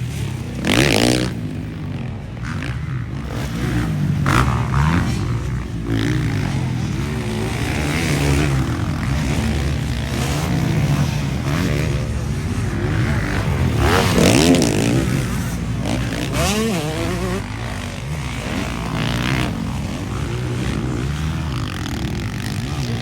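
MX1 motocross bikes racing, engines revving up and down as they pass, with loud swells about a second in and again around the middle.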